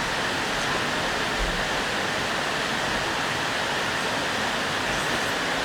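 Mountain valley stream running, a steady, even rush of water.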